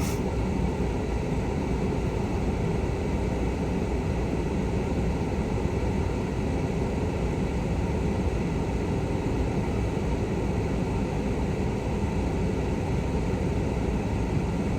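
Steady low rumble and hiss inside a closed truck cab, in the manner of an idling engine with its blower fan running.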